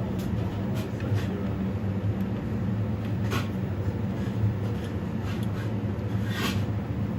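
Steady low mechanical hum, with a few light clicks and knocks over it, the clearest about three and a half and six and a half seconds in.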